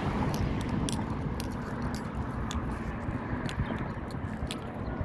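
Steady low rumble of outdoor background noise with small, irregular clicks and crackles scattered through it.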